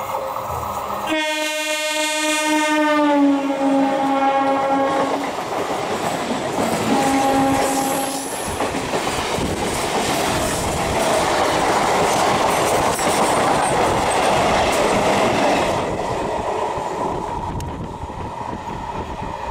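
Indian Railways EMU local train sounding its air horn in a long blast whose pitch drops partway through, then a second, shorter blast. This is followed by the loud rush and clickety-clack of the coaches passing close by at speed, which eases off near the end.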